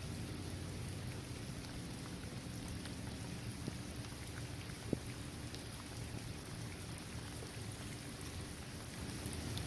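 Steady rain falling on a paved basketball court, trees and grass, with scattered drop ticks and a low rumble underneath. One sharper drop hits about halfway through.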